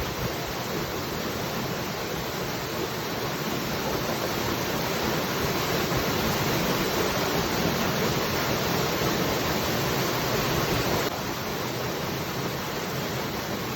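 Waterfall, water falling and rushing in a steady roar of noise with no separate splashes. It swells slightly, then drops suddenly to a lower level about eleven seconds in.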